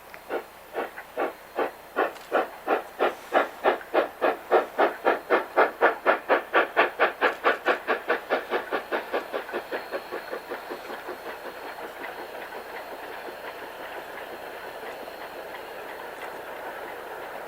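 Narrow-gauge K-27 Mikado steam locomotive (2-8-2) working hard, its exhaust chuffing in a steady beat that quickens and grows louder, peaking about six seconds in. The chuffs then fade into a steady rolling rumble of the train's cars passing over the rails.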